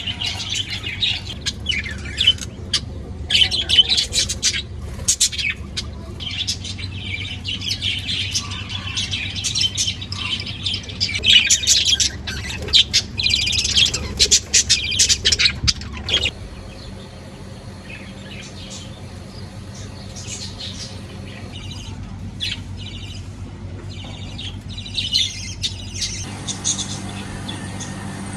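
Caged pet birds chirping and chattering in many rapid, high calls. The chirping is dense for the first half, then drops abruptly after about 16 s to a quieter stretch with scattered calls.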